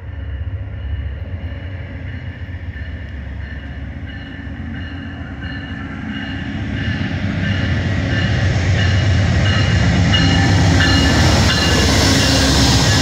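Amtrak GE Genesis diesel-electric locomotive pulling into the station and passing close by, its low engine rumble growing steadily louder over the second half. A short high ding repeats about one and a half times a second over it.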